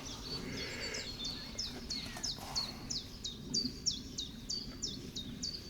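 A small songbird singing a long run of short, sharp, high notes at an even pace, about three a second, over a faint outdoor hum.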